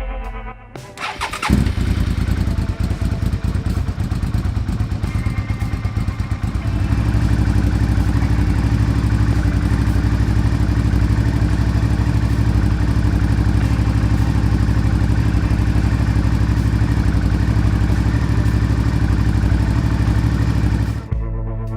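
Suzuki SV650S 645 cc V-twin engine being started: a moment of cranking, then it catches about a second and a half in. It runs unevenly for a few seconds, then settles into a steady idle.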